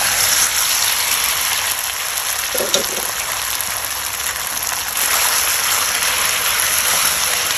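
Marinated chicken pieces frying in hot sesame oil in a pan: a loud, steady sizzle.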